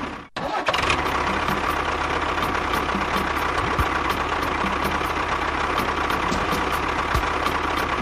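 Small motor of a DIY mini tractor or bulldozer running steadily with a faint whine. It cuts out briefly just after the start, then runs on evenly.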